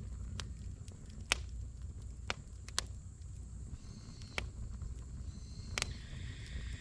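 Firewood burning in a brazier: a campfire crackling with about five sharp, irregular pops over a low steady rumble of flame, and a faint high hiss coming in about halfway through.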